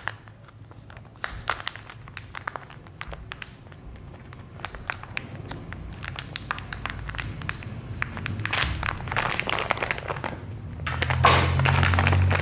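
Lock knobs and plastic fittings of a washing machine trolley being handled and fitted: irregular clicks and crinkling, sparse at first and busier in the last few seconds.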